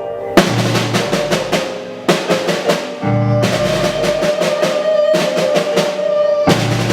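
Live band playing an instrumental passage. A drum kit comes in about half a second in, with cymbal crashes and deep bass-drum accents about every one and a half seconds. A single melodic note is held through the middle.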